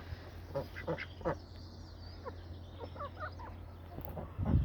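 Ducks quacking in short, scattered calls, with a brief low rumble near the end.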